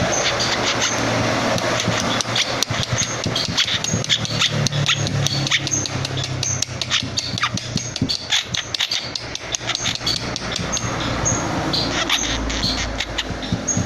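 Young long-tailed shrike giving rapid, harsh chattering with short high call notes, over a steady low engine hum.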